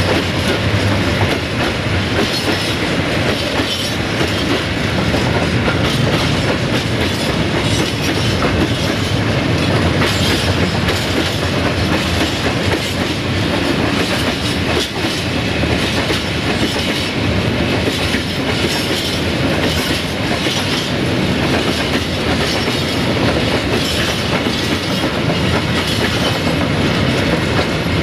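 A train rolling through at a steady level, its wheels clicking over the rail joints.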